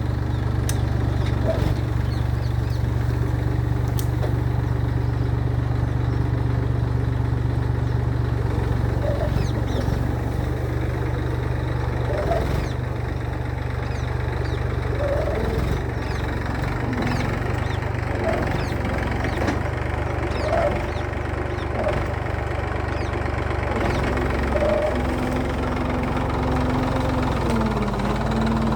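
Massey Ferguson tractor's diesel engine running steadily under load while pulling a plough, with a slight dip and recovery in engine pitch near the end.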